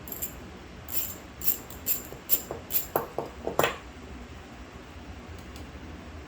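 A quick series of light metallic clinks and jingles, about a dozen in the first four seconds, like small metal carburetor parts and tools being handled and set down. After that only a low steady background remains.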